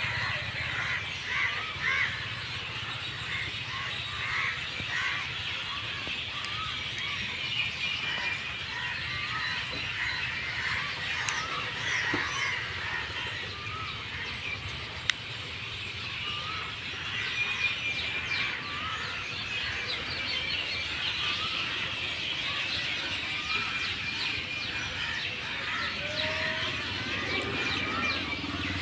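A flock of birds chirping, with many short calls overlapping without a break, and one sharp click about halfway through.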